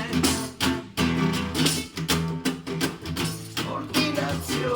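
Acoustic guitar strummed in a steady rhythm, about two strums a second, between sung lines of an improvised song.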